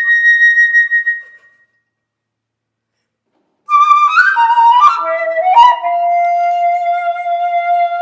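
Solo flute: a high held note that fades away about a second in, a gap of silence, then a quick run of falling notes about halfway through that settles into a long held lower note.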